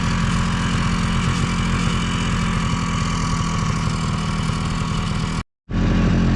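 A homemade trail machine's 277cc engine running steadily while it pulls through deep, fluffy snow to pack the trail. The sound drops out abruptly for a moment about five and a half seconds in, then resumes.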